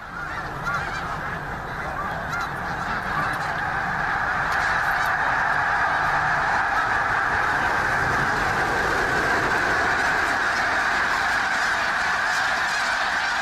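A large flock of birds calling continuously, many overlapping honking calls building up over the first few seconds and then holding steady.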